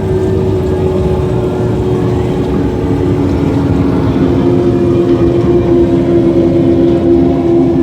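Powerboat engines droning steadily over a low rumble of water and wind noise. A second, lower engine note comes in about three seconds in and grows louder.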